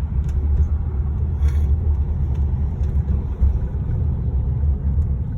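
Steady, loud low rumble with no clear pitch, holding level throughout.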